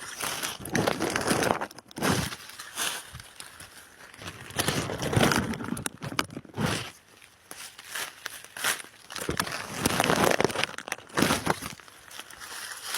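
Rustling and crackling of dry forest-floor litter, leaves and small twigs, in irregular bursts of a second or two, the way it sounds when someone moves through it or parts it by hand.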